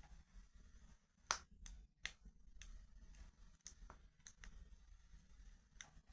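Wood fire crackling softly: irregular sharp pops and snaps, the loudest about a second in, over a faint low rumble of the flames.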